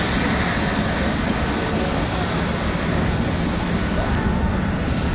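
Jet airliner engines running, a steady loud rush with a thin high whine that fades away over the first few seconds.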